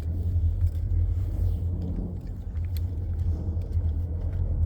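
Low, steady rumble of a train passing in the distance.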